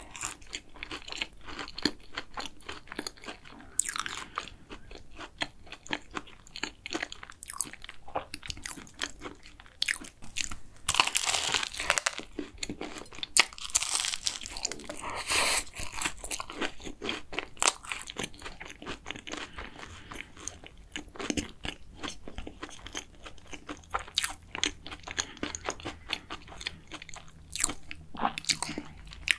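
Close-miked biting and chewing of a flaky, crisp-crusted custard cruffin: dense crackling crunches of the pastry, with a few louder bites along the way.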